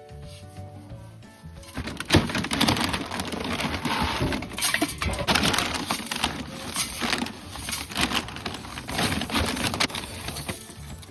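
Soft music with held notes, then about two seconds in, a dense run of rustling, crunching and scraping handling noise with many small clicks.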